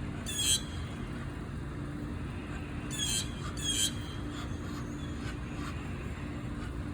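A goose giving short high-pitched calls: one near the start, then two in quick succession at about three and four seconds, over a steady low hum.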